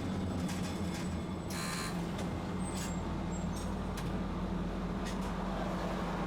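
Tosaden streetcar running with a steady low electric hum, and a brief high tone about one and a half seconds in.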